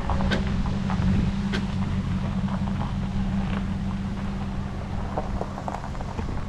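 Pickup truck engine running steadily at low speed while reversing a camping trailer into a site, with a few sharp clicks over the hum.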